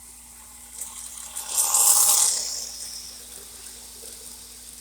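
O gauge steam turbine model train running on its layout, with a steady low hum under it. About a second and a half in comes a loud rush of hiss lasting about a second, which then fades away.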